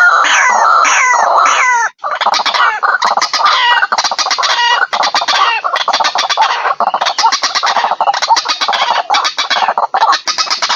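White-breasted waterhens calling loudly in a fast, repeated series of harsh croaking notes, a bird-lure recording. It drops out for an instant about two seconds in, then carries on as a denser, overlapping chorus with rapid clicking notes.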